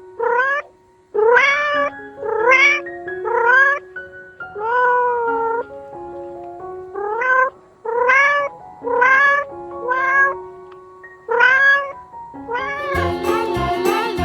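A cat meowing again and again, about ten short meows that each rise in pitch, over soft held background music. Near the end a jingly music track with a beat comes in.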